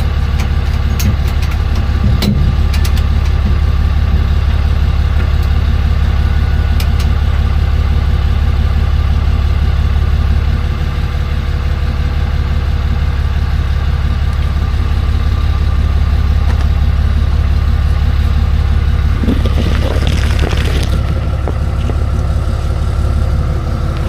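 Tow truck's engine idling steadily, a loud, even low hum. A brief noise cuts in about twenty seconds in.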